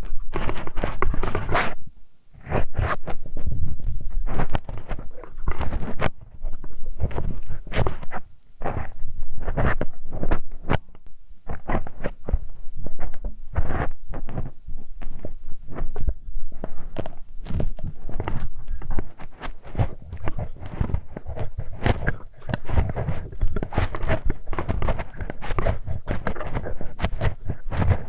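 Close ear-cleaning ASMR sounds on a binaural microphone: a steady stream of irregular scraping, rubbing and clicking with soft thuds, close against the mic.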